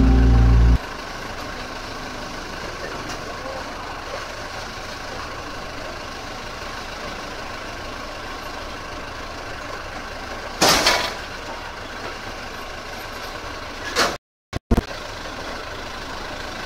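Heavy diesel engine idling steadily, with a short loud burst of noise about eleven seconds in. Near the end the sound breaks off for a moment.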